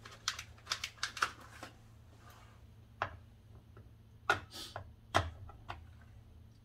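A series of sharp, irregular clicks and light clatter from hand tools being handled, in bunches of several quick ones.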